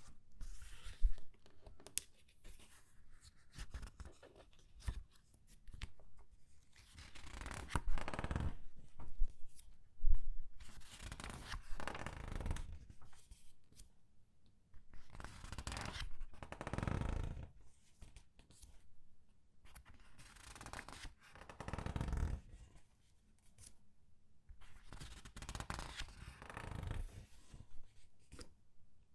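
Comic book pages being turned slowly by hand, each turn a rustle of paper, with the pages squeezed and crinkled. The turns come one after another every few seconds, with quiet gaps between them.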